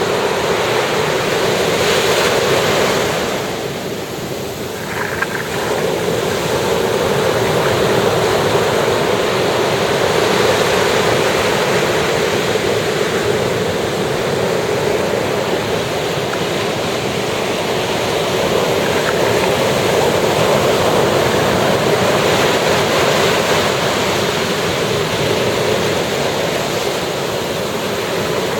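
Ocean surf breaking and washing up a sandy beach in a steady, continuous rush that eases briefly about four seconds in, then builds again.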